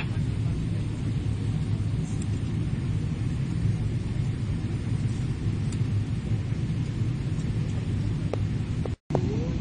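Cabin noise of a Boeing 777-300ER in flight on approach: a steady low rumble of the GE90 engines and airflow past the fuselage. The sound drops out for a split second near the end.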